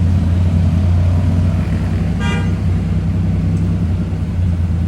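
Steady low rumble of a motor vehicle on the road, with a short single horn toot a little over two seconds in.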